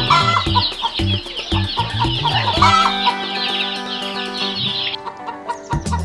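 Hens clucking and chicks peeping continuously, with background music underneath; the high peeping stops about five seconds in.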